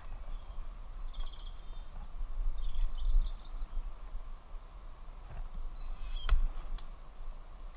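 Small birds chirping and singing in short high phrases, over a steady low rumble, with a sharp click about six seconds in.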